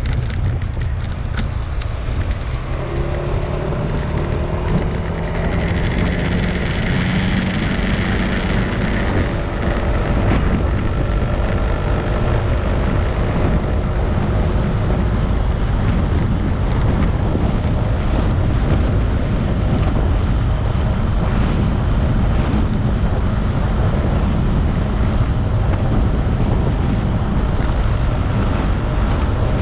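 Motorcycle engine running while riding, over a dense rush of wind and road noise. The engine note climbs over the first several seconds, as when accelerating, then holds steady.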